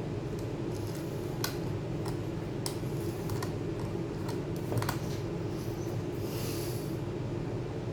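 Scattered light clicks and taps from a laptop being handled or typed on, a few separate clicks a second or more apart, over a steady low hum.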